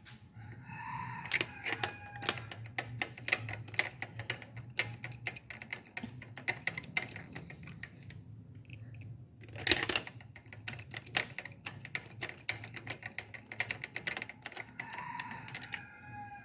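Socket ratchet clicking rapidly as spark plugs are unscrewed from a V6 engine, with one louder knock about ten seconds in.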